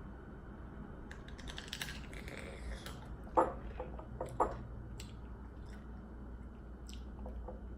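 Chewing and crunching of food, with a run of crackly clicks early on and two sharp knocks about a second apart near the middle.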